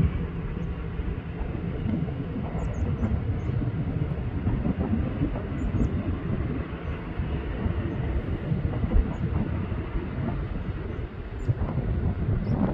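Low, rumbling roar of an Airbus A380's four jet engines during its departure. It dips briefly near the end, then swells again.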